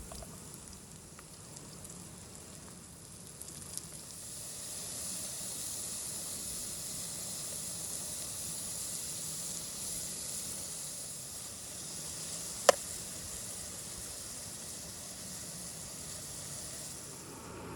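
Food sizzling as it fries in a pan, a steady hiss that swells about four seconds in, with one sharp click partway through.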